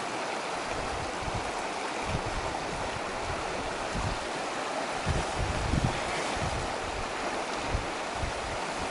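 Fast river water rushing over rocks as a steady hiss, with wind buffeting the microphone in low gusts, strongest about five to six seconds in.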